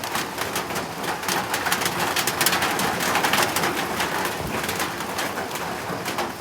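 Rain falling steadily, with a dense patter of drops and drips, and a bird cooing.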